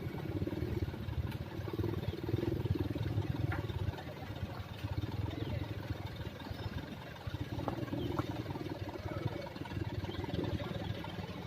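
Hino heavy-duty dump truck's diesel engine running, a rough low rumble that dips and swells a few times.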